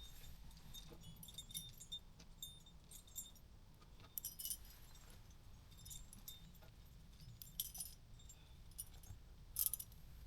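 Metal climbing hardware, such as carabiners and protection on a harness rack, jingling in a few short, faint, scattered bursts.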